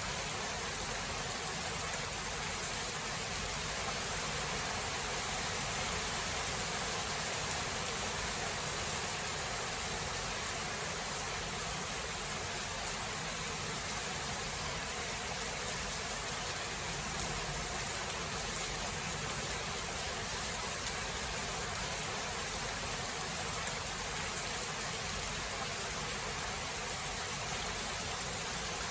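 Steady rain of a thunderstorm falling, an even hiss without thunder.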